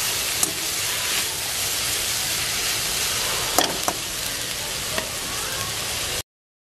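Sliced onions, tomatoes and green chillies sizzling steadily in oil in a stainless steel kadai as they are sautéed soft, with a few clicks of the metal spatula against the pan. The sizzle cuts off suddenly near the end.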